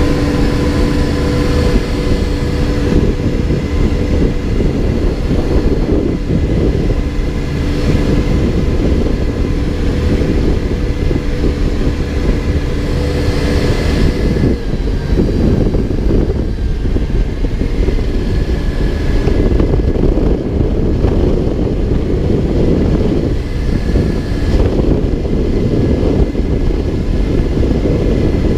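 Backhoe's diesel engine running steadily under work. A steady drone gives way to a rougher, noisier sound about halfway through.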